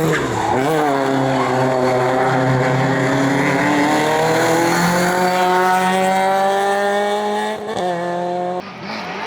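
Race car engine under load on a hillclimb: the pitch drops at the start with a short blip of revs about half a second in, then climbs steadily for several seconds as the car accelerates. There is a brief dip near the end before the sound changes abruptly.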